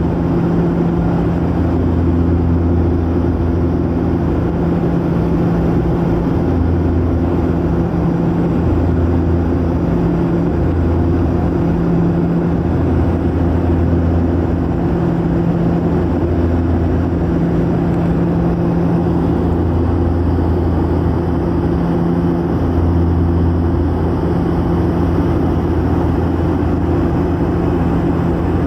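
Propeller aircraft engine drone heard from inside the cabin: a loud, steady hum whose low tones swell and fade every couple of seconds.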